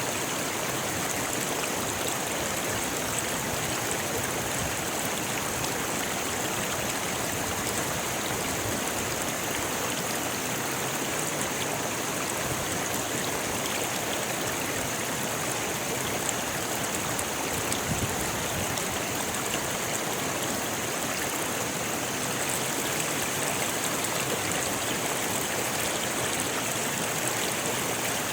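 Rocky river flowing, a steady rush of water over stones.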